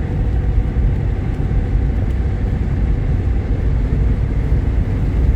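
Steady low rumble of a moving Jeep Grand Cherokee, its 3.7L V6 engine and road noise heard from inside the cabin while driving.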